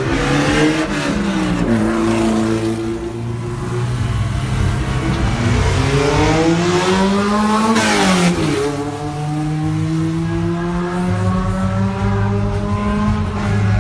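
Race car engines revving up through the gears, the pitch climbing and dropping back with each shift. About eight seconds in, one passes close, its pitch falling sharply as it goes by.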